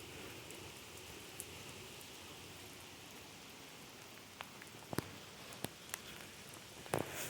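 Steady hiss of light rain falling, with scattered sharp drips and taps, a few louder ones in the second half and a louder splash near the end.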